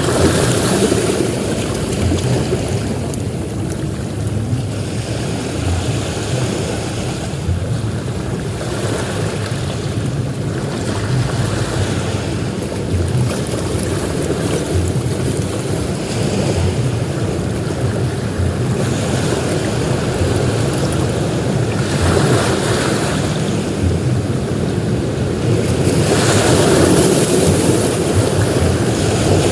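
Ocean surf breaking on a beach: a continuous low rumble with swells of hiss as waves break and wash in, the strongest near the end, with wind buffeting the microphone.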